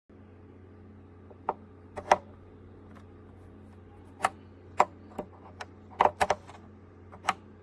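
Chefman Iceman portable mini fridge running with a steady low hum, with about a dozen irregular sharp clicks and knocks over it. The loudest knock comes about two seconds in and a quick cluster about six seconds in.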